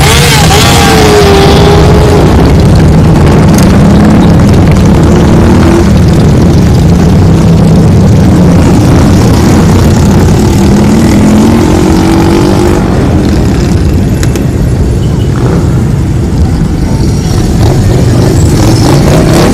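Several motorcycle engines running and revving together at very loud level, their pitches rising and falling in overlapping revs.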